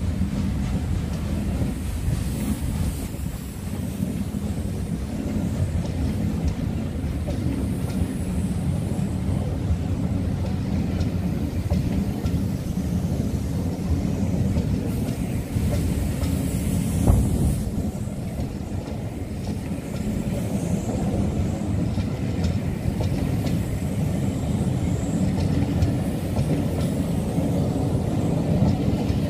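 Passenger coaches of a train rolling past, a steady low rumble with wheels clicking over rail joints, and one sharper knock a little over halfway through.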